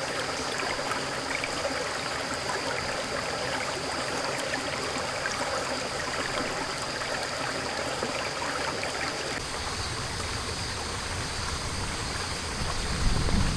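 Steady rushing, pattering water noise with many small drops or splashes, like rain or a stream, and a faint steady high tone above it.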